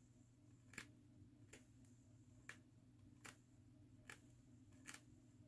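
Tweezers clicking as hairs are plucked from a wig's lace frontal hairline: faint, sharp single clicks about once a second over a low steady hum.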